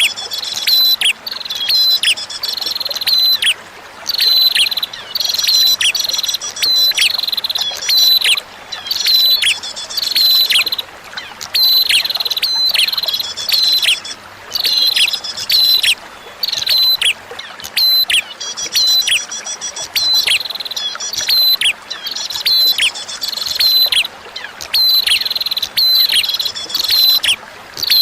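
Prinia (prenjak) singing over and over in short, loud phrases: a high held note, quick downward slurs and fast high trills, every second or two. A faint steady hiss of trickling water runs underneath.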